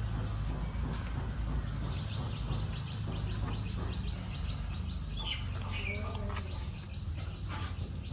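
Small birds chirping: a quick run of short high chirps in the middle, then a few single chirps, over a steady low background hum.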